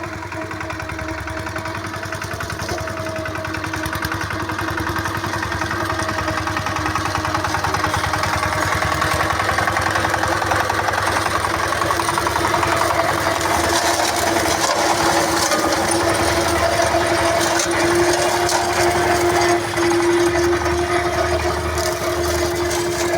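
Single-cylinder ZS1105 diesel engine of a four-wheel mini tractor running steadily under work, with a constant pitch, growing louder over the first ten seconds or so.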